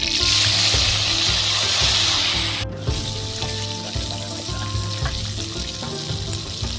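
Grasshoppers frying in hot oil in a wok: a loud, dense sizzle that drops abruptly to a quieter, steady sizzle about two and a half seconds in.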